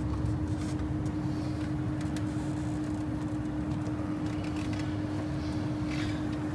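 A car engine running steadily: an even low rumble with a constant hum.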